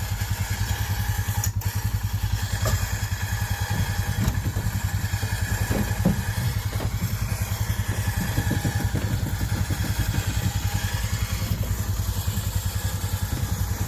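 ATV engine idling steadily, a low, even pulsing throughout.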